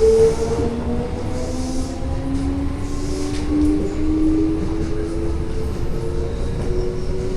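Toei Asakusa Line 5300 series electric train running: a steady rumble of wheels on rail under the whine of the traction motors, one tone of which rises slowly in pitch as the train picks up speed.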